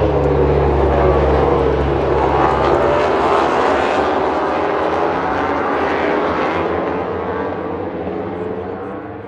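MotoGP racing motorcycles going past at speed, their engine notes sweeping down and up in pitch as they rev. The sound fades away near the end.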